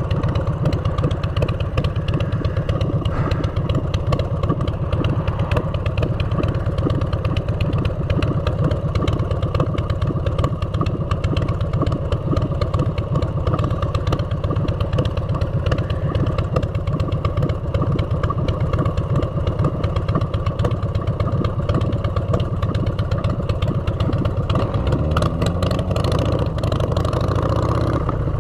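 Motorcycle engine running through aftermarket exhaust pipes while riding, a steady low, dense exhaust note. Near the end the engine note changes and rises in pitch.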